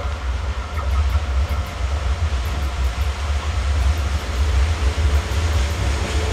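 Freight train hauled by a Siemens ER20CF diesel locomotive running on the line: a steady rumble that grows slightly louder.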